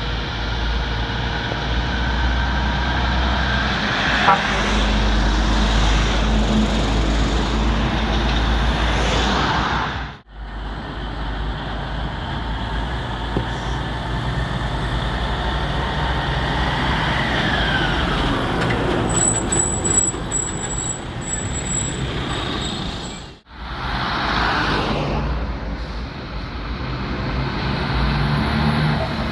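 Roadside traffic with heavy trucks driving past: steady engine rumble and tyre noise, with a falling pitch as one vehicle goes by. The sound cuts out abruptly twice.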